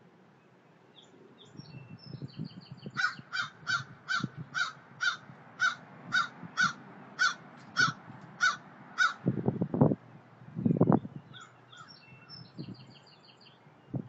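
A bird giving a long series of about a dozen loud, evenly spaced calls, roughly two a second, with small birds chirping faintly before and after. Two short low rumbles follow the calls.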